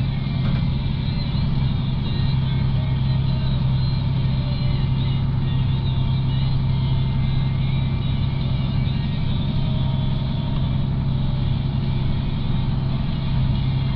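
A vehicle's engine running steadily at constant speed, an even low hum with no change in pitch.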